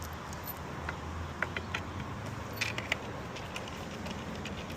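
A few short, light clicks and taps from handwork on a couch's fabric dust cover and staple gun, over a low steady hum.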